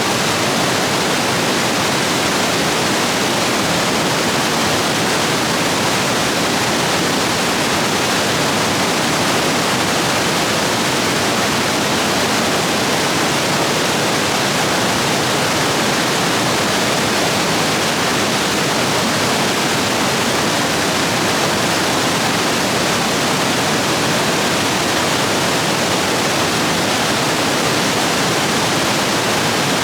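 Rain-swollen stream rapids rushing over rocks, a steady, loud roar of white water.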